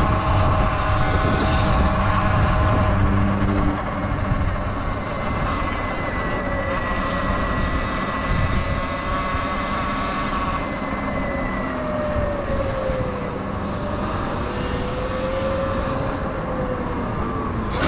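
Sur Ron electric dirt bike riding along, its motor giving a thin whine whose pitch shifts and slides as the speed changes, over steady wind and tyre noise.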